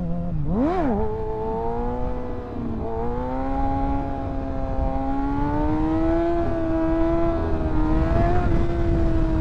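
Kawasaki ZX-6R 636 inline-four sport-bike engine under way, revving sharply up and back down about half a second in, dipping briefly about two and a half seconds in, then pulling steadily with its note slowly rising and easing, over wind rushing past the microphone.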